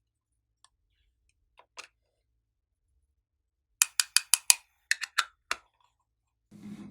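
Glossy slime being pressed and worked by hand, giving a few faint clicks and then two quick runs of sharp, loud clicking pops, about ten in all, in the middle. Near the end comes a softer squishing sound.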